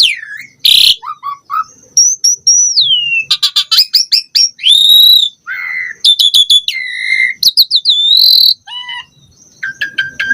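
Asian pied starling (jalak suren) singing a loud, varied song: gliding whistles, quick runs of sharp chirps and a few short harsh notes, one after another with brief pauses.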